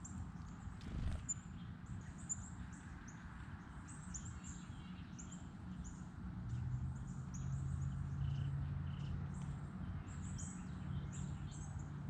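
Small birds chirping, many short high calls in quick succession. A low steady hum comes in about halfway through.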